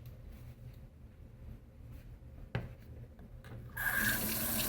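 A faint knock, then a kitchen or bathroom tap turned on with water running into a sink near the end, for hand-washing.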